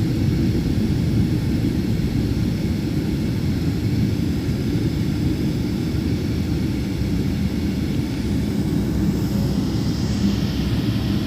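Steady low rumble of a jet airliner's engines and airflow heard inside the passenger cabin during landing. A faint higher hiss joins near the end.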